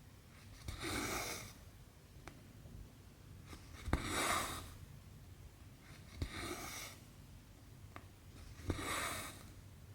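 Cross-stitching: a sharp click as the needle goes through the fabric, then a swish as the cotton thread is pulled through. This happens four times, about every two and a half seconds.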